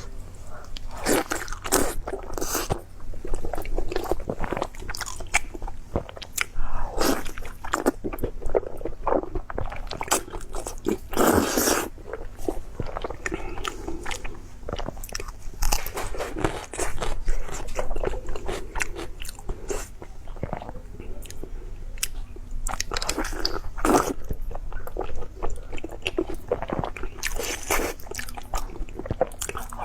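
A person eating close to the microphone: crunchy bites and chewing, with irregular crunches throughout.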